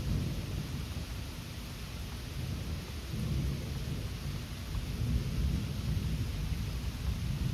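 Thunder rumbling low and long, swelling about three seconds in and again near the end, over a steady hiss of rain.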